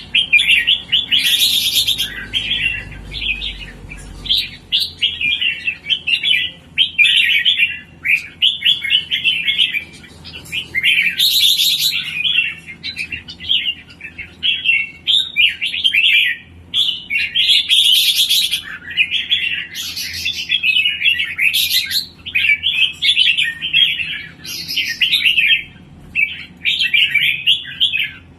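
A kept songbird singing almost nonstop in fast, chattering phrases, with a few sharp, piercing high notes breaking through; the bird is in full song form.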